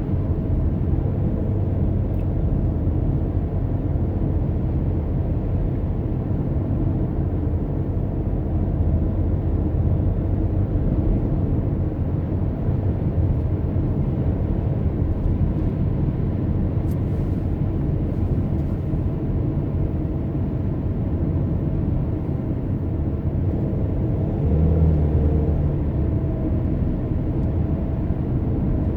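A car driving, a steady low rumble of engine and road noise, with a brief louder low swell near the end.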